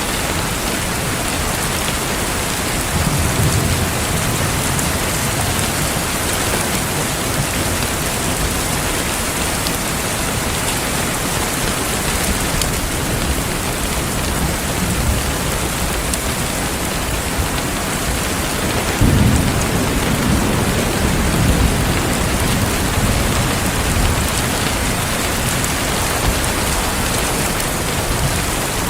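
Heavy rain falling steadily, with low rumbles of thunder: a short one about three seconds in and a longer, louder one rolling on from about nineteen seconds.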